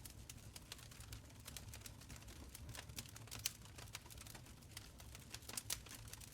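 Wood fire in a stone fireplace, crackling: irregular small pops and clicks over a low rumble of flame, with a louder snap about three and a half seconds in and another near the end.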